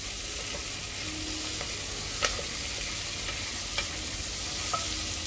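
Vegetables sizzling in hot oil in a pressure cooker as a wooden spoon stirs them, a steady frying hiss. Three sharp knocks of the spoon against the pot come about two, four and five seconds in.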